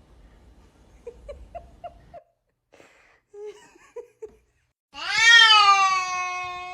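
Domestic cat vocalizing: a quick series of about five short mews, a few more short sounds, then a loud, long drawn-out meow starting about five seconds in.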